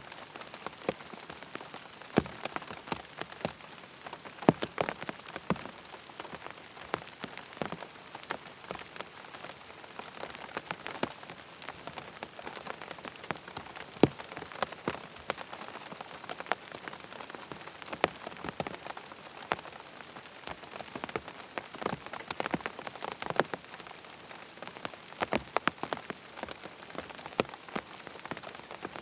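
Steady rain falling, with frequent irregular sharp ticks and pops over the rain hiss.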